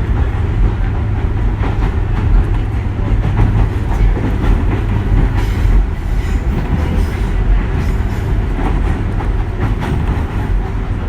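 A 201 series electric train running along the track: a steady low rumble, with its wheels clacking over rail joints.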